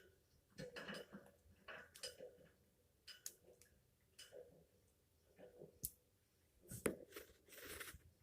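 Faint, scattered clicks and short rustling sounds from an African grey parrot preening, with a sharper click about six seconds in and a longer rustle near the end.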